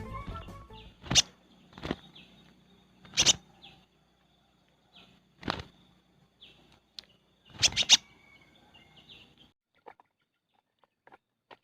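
Spiderhunter calls: loud, sharp, very short single notes repeated at irregular intervals of one to two seconds, with two calls close together near eight seconds, over a faint steady high tone. The calls stop about two-thirds of the way through, leaving only a few faint clicks.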